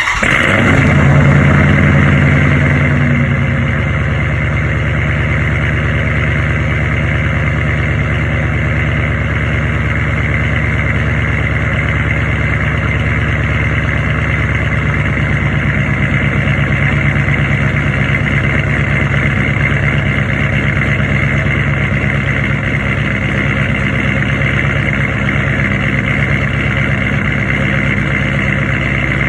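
Dodge Challenger Scat Pack's 6.4-litre HEMI V8, fitted with a 270 Comp cam, long-tube headers and a Flowmaster Outlaw cat-back exhaust, firing on a cold start. It flares to a high idle for about three seconds, then settles to a steady idle.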